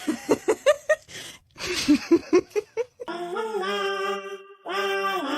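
A person laughing in short bursts for about three seconds. A voice then starts singing or chanting long held notes, breaks off briefly and goes on.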